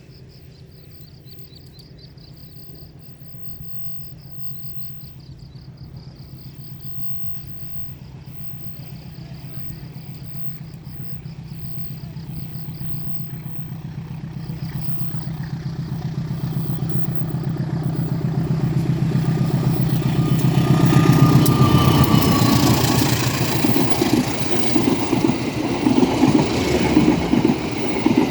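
Diesel locomotive approaching along the mainline, its prime mover's steady low drone growing louder for about twenty seconds until it passes close by, then the train's wheels rolling past with a rougher, uneven rumble. Insects chirp faintly near the start.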